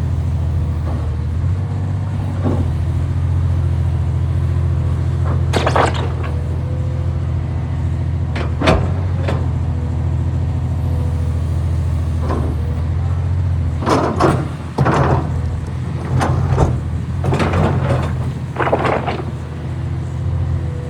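2017 Komatsu PC490LC-11 excavator's diesel engine running steadily under working load, with short sharp clanks and squeaks from the machine's tracks and hydraulically moved parts, one about six seconds in, another near nine seconds, and a cluster over the last third.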